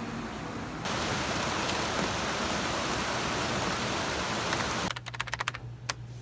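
Steady rain as an even hiss that begins abruptly about a second in. It cuts off suddenly near the end, followed by a quick run of light clicks over a low hum.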